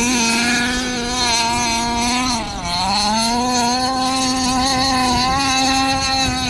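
HPI Baja 5B's 30.5cc ported long-rod two-stroke engine with a VRC side pipe howling at high revs. The revs dip briefly about two and a half seconds in, then climb back to a steady high pitch.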